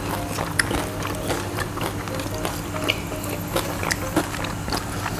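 Close-up chewing of crispy fried chicken: scattered crunches and wet mouth clicks, with a steady low hum underneath.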